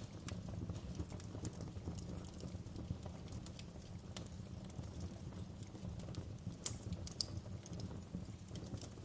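Wood fire burning with a steady low rumble and irregular crackles and pops, two sharper pops about seven seconds in.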